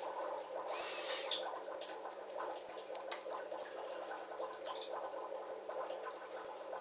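Baby cockatiels pecking at and tearing spinach leaves with their beaks: a dense, steady crackle of small clicks, a little louder about a second in, over a faint steady hum.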